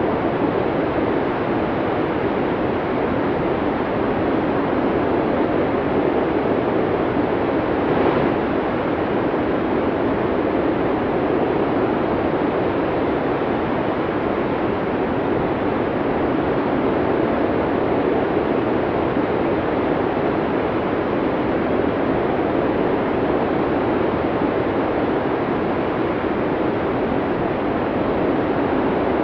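Snowstorm wind blowing steadily, a dense even rush with no let-up.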